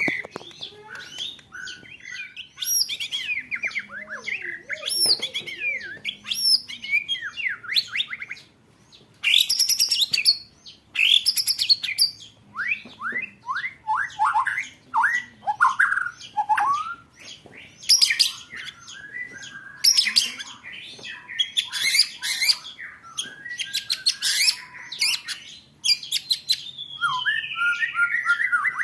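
Songbirds singing in fast bursts: rapid rolls of repeated sharp notes, like a quick ticking trill, mixed with sweeping whistles that rise and fall in pitch. The phrases come in bursts every second or two, with short gaps between them.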